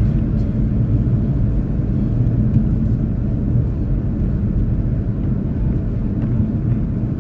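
Steady low rumble of a car driving, engine and road noise heard from inside the moving car.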